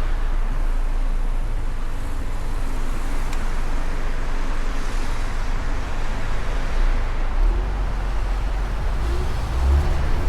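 Wind rush and road noise from a moving Mustang convertible, with a heavy low rumble of wind buffeting the microphone that swells near the end.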